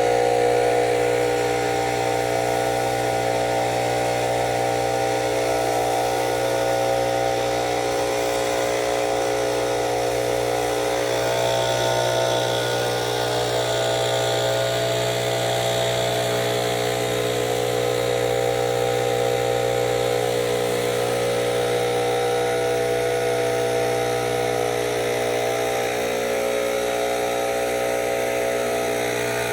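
Steady machine drone, unchanging throughout, made of a low hum and several fixed higher tones.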